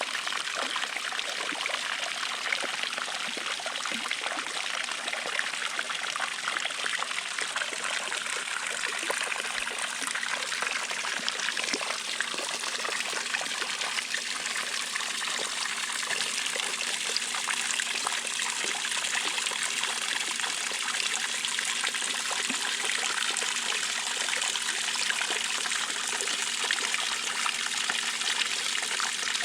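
Water pouring steadily from an Intex 28089 pool waterfall cascade, trickling and splashing without a break.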